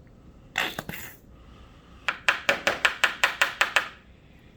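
A utensil knocked against the rim of a bowl to get the last of the mayonnaise out: one knock about half a second in, then a quick run of about a dozen taps over two seconds.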